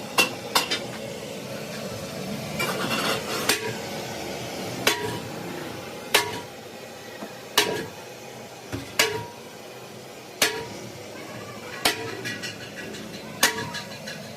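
Hammer blows on metal, struck at a steady pace of about one every second and a half, each blow ringing briefly.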